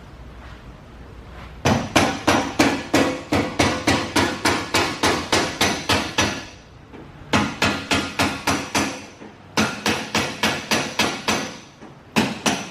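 Metal being struck rapidly and evenly, about three to four ringing blows a second, in runs of a few seconds with short pauses between them. It starts a little under two seconds in.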